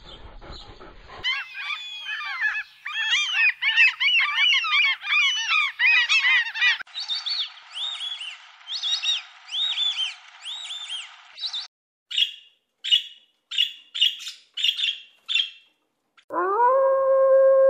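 A flock of birds calling, many quick chirps overlapping, then thinning out. After that comes a run of about seven short, evenly spaced calls, and near the end a long, steady, pitched howl begins.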